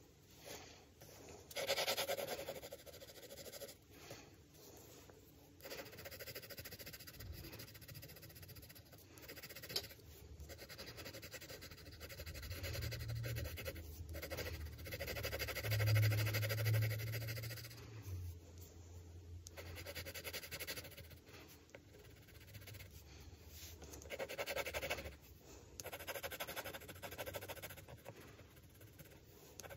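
Graphite pencil scratching across drawing paper in long stroke passages with short pauses between them. A low hum comes in for a few seconds in the middle.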